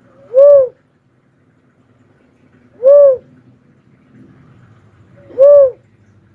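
Cuckoo-dove calling: three single coos, each rising then falling in pitch, repeated at an even pace about two and a half seconds apart.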